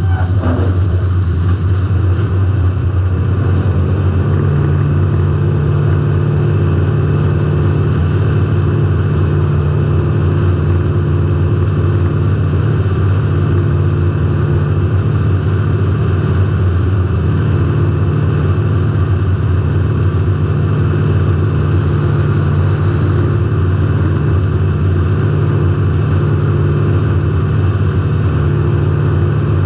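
A derby car's engine running steadily, heard close up from a camera mounted on the car. Its revs drop in the first second or so, then it holds an even note.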